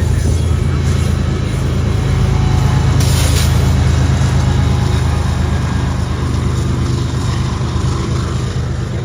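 Freight train passing: a steady, loud low rumble and engine drone, with a short burst of hiss about three seconds in.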